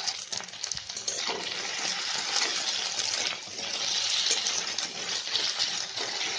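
Raw potato cubes sizzling in hot mustard oil in a kadhai, a steady frying hiss, with a few clicks near the start as the spatula stirs them.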